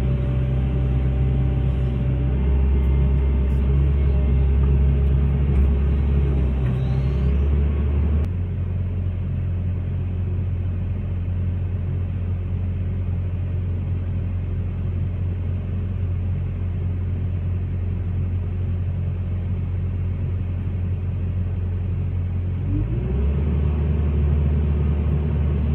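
Hitachi excavator's diesel engine running. Its note drops to a lower, quieter level about eight seconds in, then rises back up near the end.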